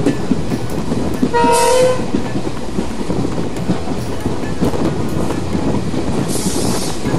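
Train running on the rails with a steady rumble and clatter, and a short horn blast about a second and a half in. A brief hiss comes near the end.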